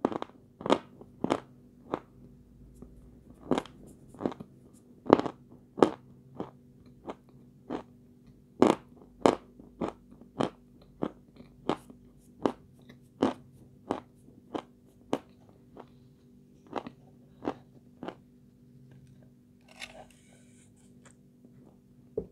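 Mouth-close crunching of hard edible white chalk being chewed: sharp, crisp crunches about one to two a second, growing sparser toward the end, over a faint steady hum. A brief rustle comes near the end.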